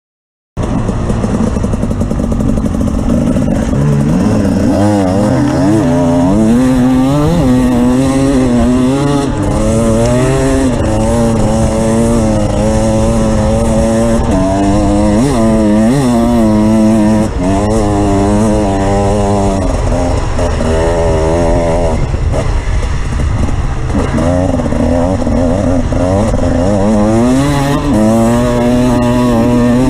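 Off-road vehicle engine running while being ridden. It starts suddenly about half a second in, and the revs rise and fall every second or two over a steady low hum.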